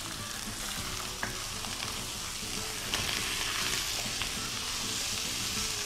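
Boiled minced beef frying in hot oil and spice paste, sizzling while a wooden spoon stirs it with a few light knocks against the pan. The sizzle gets louder about three seconds in.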